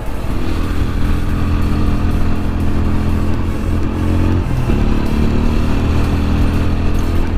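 Motorcycle engine running steadily while riding, its note shifting about four and a half seconds in.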